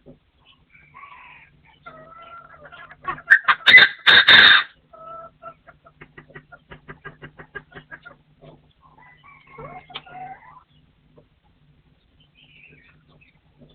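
Partridge calling: a loud harsh call about three seconds in lasting over a second, followed by a quick run of short clucking notes, about six a second, and fainter calls near ten seconds.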